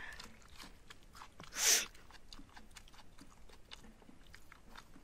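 Close-up eating sounds of rice and curry eaten by hand: wet chewing and lip smacks as many small clicks, with one short, loud hiss about a second and a half in.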